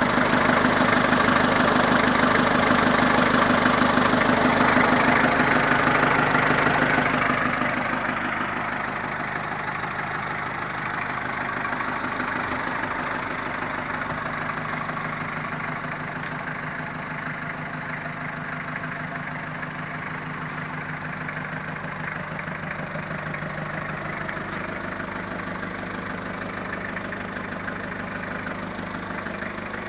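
Isuzu four-cylinder diesel engine of a Hindustan Contessa Diesel idling steadily. It is loudest for the first several seconds, then a little quieter.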